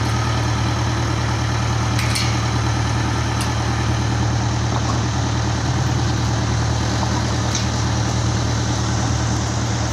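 Toyota Dyna dump truck's diesel engine idling steadily, with a few faint clicks over it.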